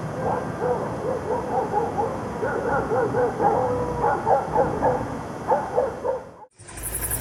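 An animal giving many short, high yelping and whining calls in quick succession, cut off abruptly near the end.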